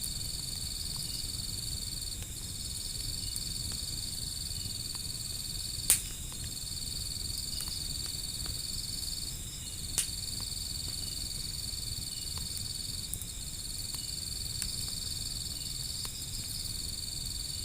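Insects trilling in a steady high chirr with brief breaks, and two sharp pops from a burning wood fire, about six and ten seconds in.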